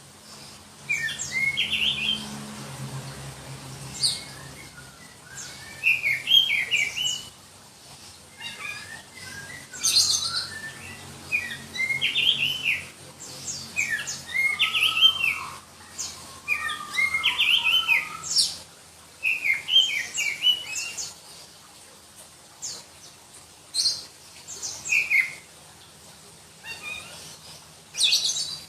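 Oriental magpie-robin of the black-breasted Kalimantan form (kacer dada hitam) singing: short, shrill phrases of quickly rising and falling whistled notes, repeated every second or two with brief pauses between.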